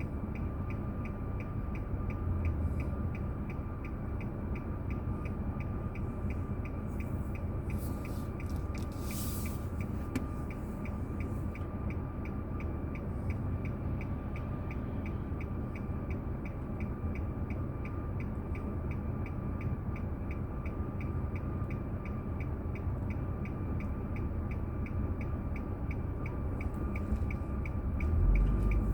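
Car running on the road, heard through an in-car dashcam: a steady low engine and road rumble with a fast, regular ticking throughout. The rumble grows louder near the end as the car picks up.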